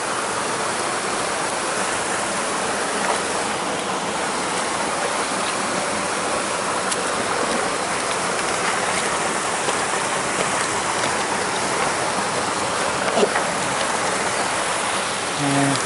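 Steady rush of flowing stream water, an even wash of noise without a break.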